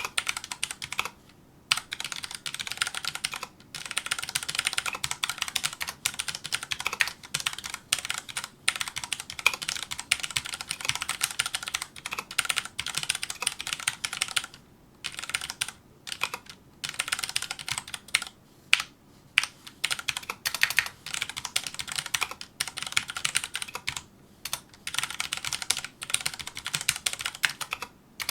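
Fast typing on a Filco Majestouch2 mechanical keyboard with Cherry MX Brown switches: rapid runs of key clacks broken by short pauses of under a second.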